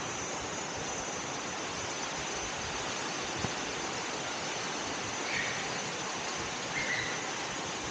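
Steady rushing of water from a waterfall stream, an even hiss with no change, with two faint short chirps late on.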